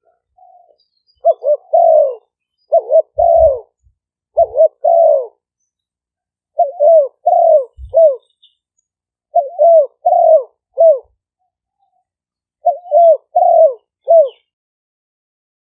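Spotted dove cooing: six short phrases of three or four falling coos each, separated by pauses of a second or more. This is a decoy bird's call of the kind played to lure wild doves.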